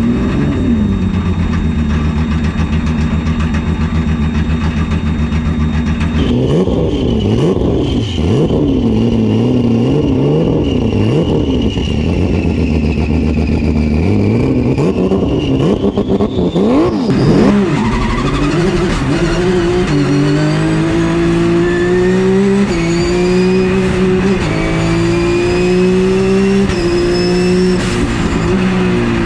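Porsche GT3 Cup race car's flat-six engine under hard driving on a hill climb. It holds a steady pitch at first, then the revs swing up and down through a series of corners, and over the last ten seconds or so the revs climb and drop again and again as it shifts up through the gears.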